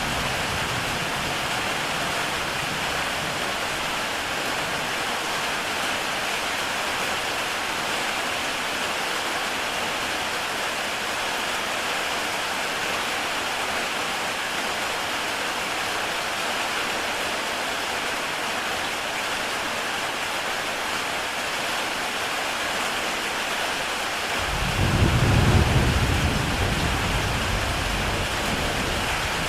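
Heavy rain falling steadily on a tile roof, an even hiss. About 25 seconds in, a low rumble of thunder swells up, peaks and slowly fades.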